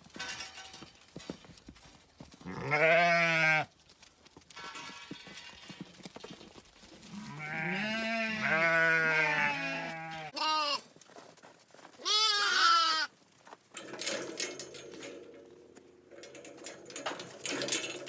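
Ewes bleating: about four separate wavering calls, the one in the middle long with two voices overlapping.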